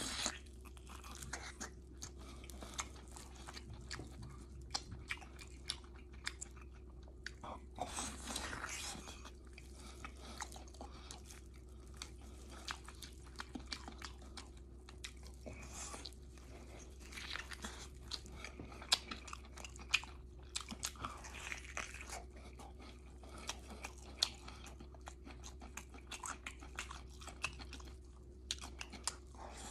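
Close-miked chewing and biting of soft, gelatinous braised beef: a run of small wet mouth clicks and smacks.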